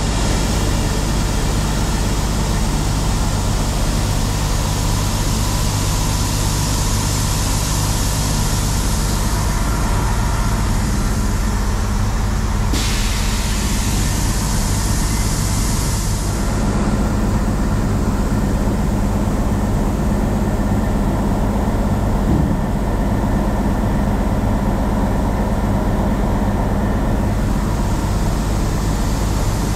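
Peterbilt semi truck's diesel engine running steadily, heard from inside the cab, with a steady hiss over it that drops in level about halfway through.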